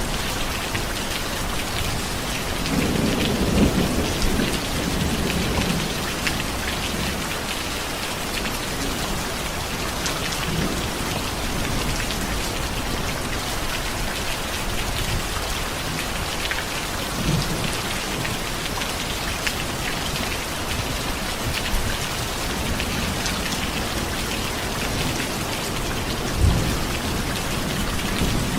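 Steady rain falling, an even hiss of drops on a surface. A low rumble of thunder swells about three seconds in and fades over a couple of seconds, and there is a short low thump near the end.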